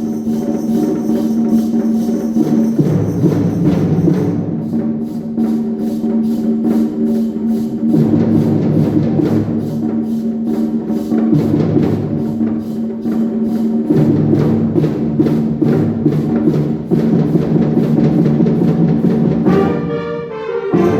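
Concert wind band playing, with held brass and woodwind chords over a steady percussion beat of about three strikes a second; near the end the beat drops away and a brighter brass passage comes in.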